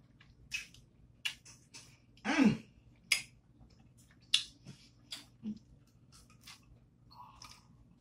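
A person chewing barbecue meat with wet lip-smacking clicks spaced irregularly throughout, and a short hum that falls in pitch about two and a half seconds in.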